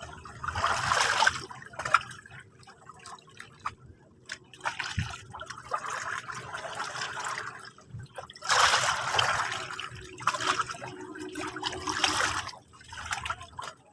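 Small sea waves lapping and splashing at the shore in repeated washes of a second or so, with water trickling and dripping between them.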